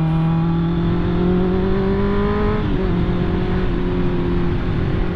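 Honda CB650R's inline-four engine pulling under throttle, its pitch rising slowly, then dropping sharply about halfway through and holding steady.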